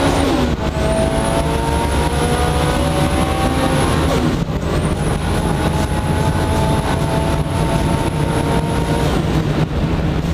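Mitsubishi Lancer Evo 8 race car's turbocharged 2.0-litre four-cylinder engine heard from inside the cabin, revving hard under acceleration. The pitch drops with a gear change right at the start and again about four seconds in, then eases off near the end. A high whine rises with the revs over a steady rumble of road and wind noise.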